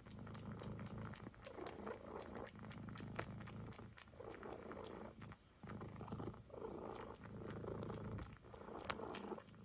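A cat purring, the purr swelling and easing with each breath about every one to two seconds.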